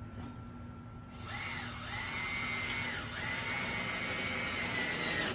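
Power drill driving a screw through a wood support into a wall stud, its motor whining steadily in three runs with brief pauses between them.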